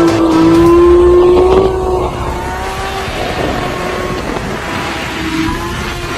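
Motorcycle engine held at steady high revs, its pitch rising slightly before it eases off about two seconds in, leaving quieter engine and road noise.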